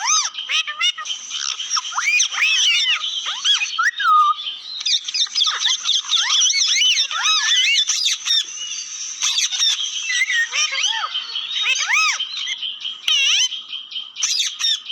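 Parrots chattering: a continuous stream of short, high chirps that rise and fall, overlapping one another.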